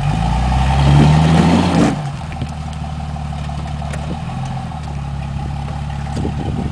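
Jeep Cherokee XJ engine revving up under load for about two seconds, its pitch rising, then dropping back to a steady idle.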